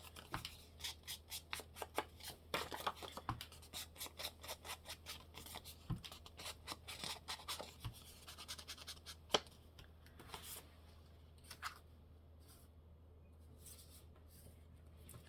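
Paper being handled and cut at a craft desk: a quick run of crisp rustles and snips, several a second, for about nine seconds, then only a few scattered light taps.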